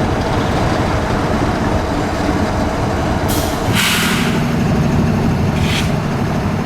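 Steady rumble of a stopped freight train and passing road traffic, with wind on the microphone. A strong hiss sets in about three seconds in, a shorter one comes near the end, and a steady low engine hum starts about halfway through.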